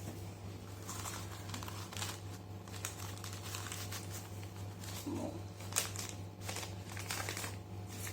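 Crinkling and rustling of ingredient packaging with scattered light clicks while baking powder and baking soda are measured out, over a steady low hum.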